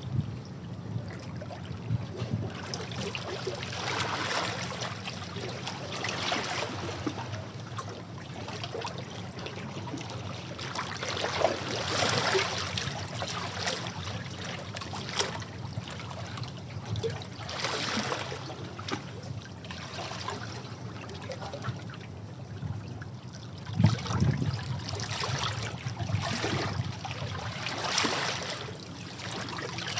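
Sea waves washing over rocks: a steady rush of splashing and trickling water that swells every few seconds as each wave comes in, with one sharper splash late on.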